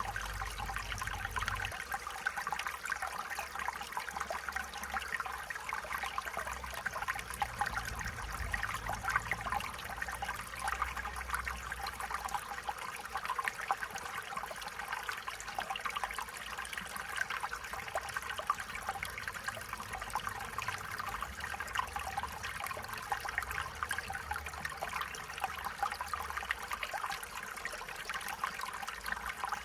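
Stream water trickling and babbling over stones, a steady burbling rush with constant fine splashes.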